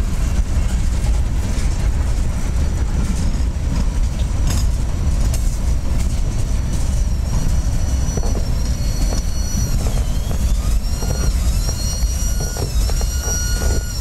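Freight train boxcars rolling past with a steady low rumble and scattered knocks from the wheels. From about halfway, a high thin squeal rises from the wheels, holding a steady pitch with brief dips.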